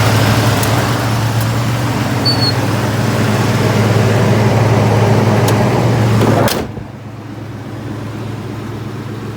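1983 Chevrolet Silverado's 305 V8 engine running steadily with a low hum. It cuts off abruptly about two-thirds of the way through, leaving a much fainter hum.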